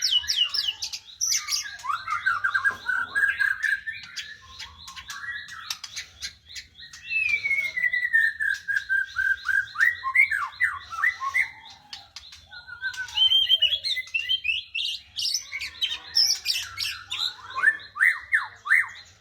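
White-rumped shama (murai batu) singing a long, varied song of rapid chirps, trills and whistled slurs, with a long falling phrase in the middle and only brief pauses.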